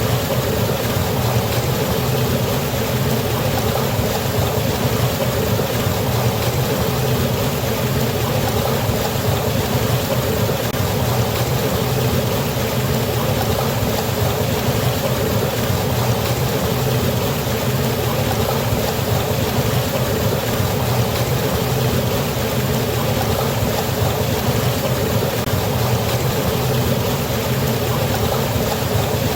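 Waterfall: a steady, unbroken rush of falling water with a deep, even roar.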